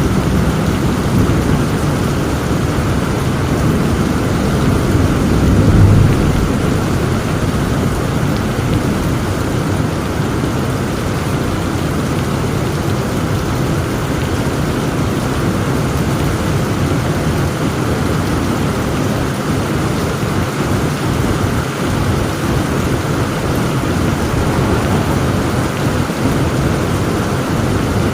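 Heavy rain falling steadily, with a roll of thunder that builds and peaks about six seconds in.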